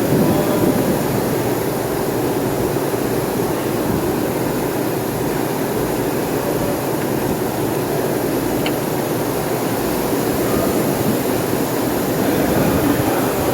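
The 2020 GMC Acadia's 2.0-litre turbocharged four-cylinder engine running steadily.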